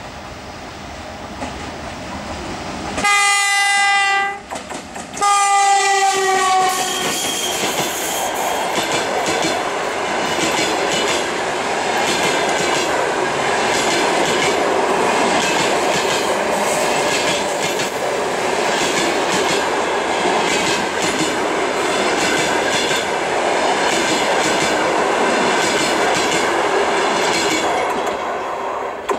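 EP1M electric locomotive with a passenger train approaching and passing close by. Its horn sounds two blasts about three and five seconds in, the second dropping slightly in pitch as the locomotive goes past. Then the long train of passenger coaches rolls by with a steady clack of wheels over rail joints, fading away near the end.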